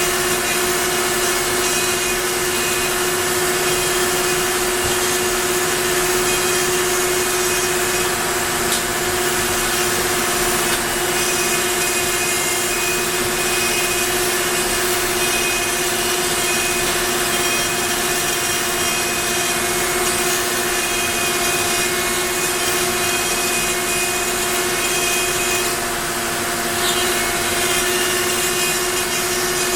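Onefinity CNC router cutting wood: the spindle holds a steady high whine while the bit chews through the board with a continuous rasping noise.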